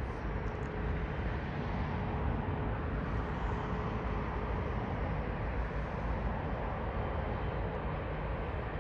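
Strong wind buffeting the microphone, a steady low rumble, with a faint steady hum underneath that fades out about halfway through.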